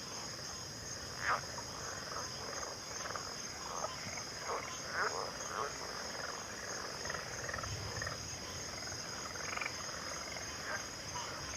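A frog chorus: many short croaking calls, one after another at irregular intervals, over a steady unbroken high-pitched trill.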